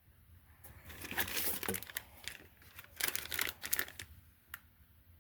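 Plastic parts bags crinkling and rustling in two spells as they are handled, with a few light clicks.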